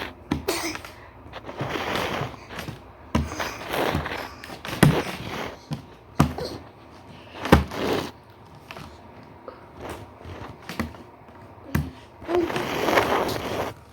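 A series of irregular knocks and thumps with short scraping, rattling bursts, like toys being banged and pushed about in a small room.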